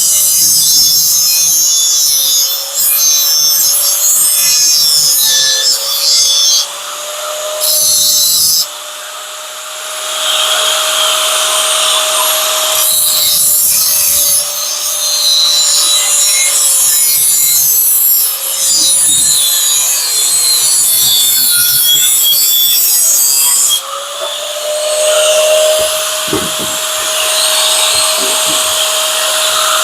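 Angle grinder grinding on metal: a steady motor whine with a gritty hiss each time the disc bites into the workpiece. It eases off the work briefly about nine seconds in, then carries on.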